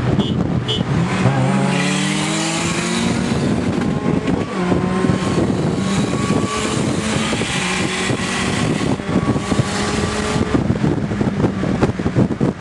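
Boosted Honda K-series four-cylinder in a Civic accelerating hard. Its pitch climbs, drops at an upshift about four and a half seconds in, climbs more slowly through the next gear, and falls off near the end.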